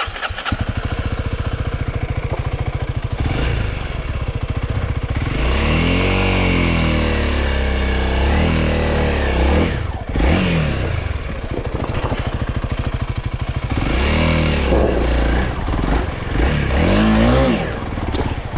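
Honda CRF300L single-cylinder dirt bike engine revving in surges, its pitch rising and falling several times, with a brief drop about ten seconds in.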